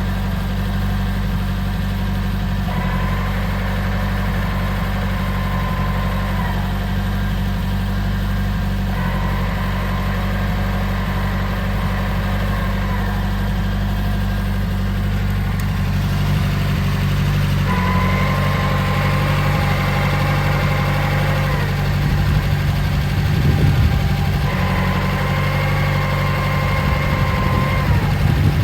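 Nissan Skyline DR30 idling, with an abnormal transmission noise, a whine over the engine hum, that comes in whenever the clutch pedal is released and goes quiet whenever it is pressed. It does this about four times over.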